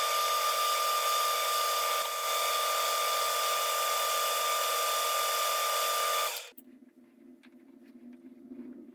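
Electric drill running at a steady speed with a steady whine, drilling a hole to be tapped for a 10-24 thread; it stops abruptly about six seconds in, leaving a faint low hum.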